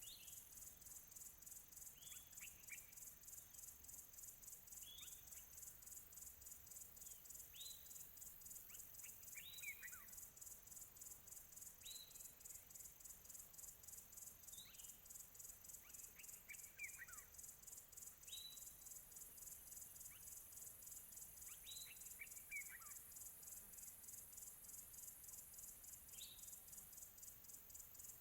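Faint, steady high-pitched insect chorus, pulsing rapidly, with a bird giving short downward-sweeping chirps about every two seconds.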